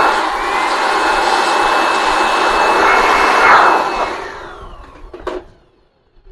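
Electric hot-air blower running steadily with a high whine, switched off about four seconds in, its whine falling as the fan spins down. A single sharp knock follows.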